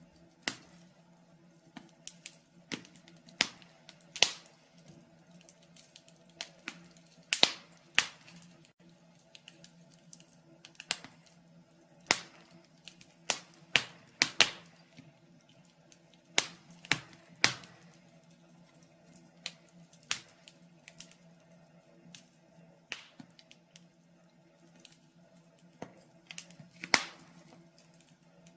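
Wood fire in a fireplace crackling: irregular sharp pops and snaps, one or two a second, some much louder than the rest, over a faint steady low hum.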